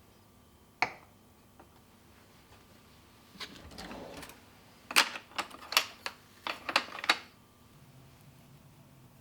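A single sharp click, then a brief rustle, followed by a quick run of about eight sharp clicks and taps.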